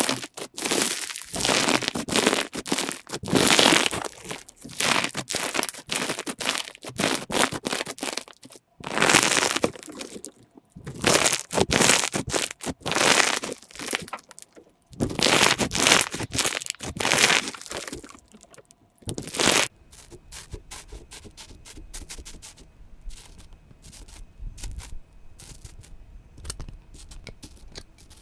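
Slime being squeezed and pressed by hand, crackling and popping in dense rounds of a second or two. About two-thirds of the way through it drops to faint scattered clicks over a low hum.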